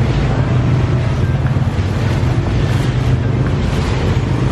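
Several motor scooter engines idling close by, a steady low hum, with wind noise on the microphone.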